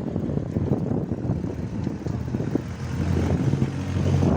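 Motor vehicle engine running steadily on the road, with a low rumble underneath; the engine note grows a little stronger about three seconds in.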